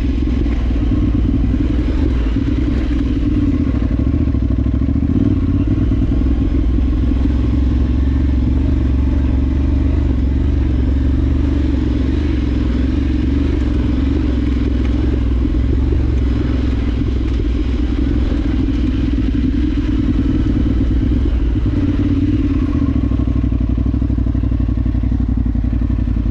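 Adventure motorcycle's parallel-twin engine running at a steady pace while being ridden off road.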